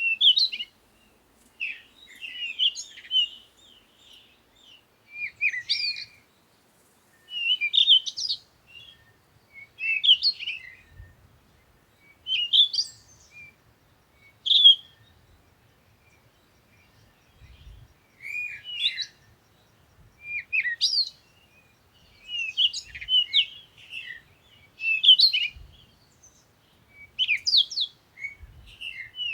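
Songbirds singing in short, bright chirping phrases that come every second or two.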